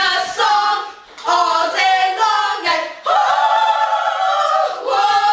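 Several voices singing a capella, chanting a catchy repeated tune in short phrases. About three seconds in they hold one long note for nearly two seconds.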